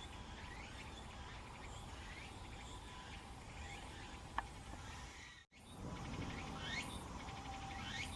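Outdoor animal calls: a short rising call repeated about once a second over fine, even chirping like insects. There is a single sharp click a little past four seconds in. A brief dropout comes about five and a half seconds in, and after it the rising calls are louder and higher.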